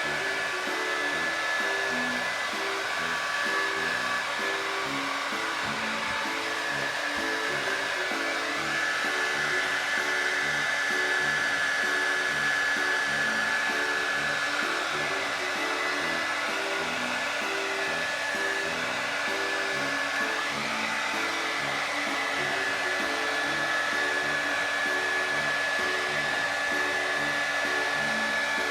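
Hair dryer running steadily, its rush of air carrying a constant high whine, with light background music underneath.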